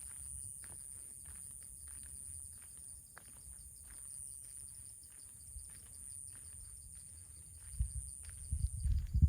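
Outdoor ambience of insects: a steady high-pitched buzz that stops near the end and a fast, even chirping. Soft footsteps on the path tick along, and wind buffets the microphone in gusts over the last second or two, the loudest part.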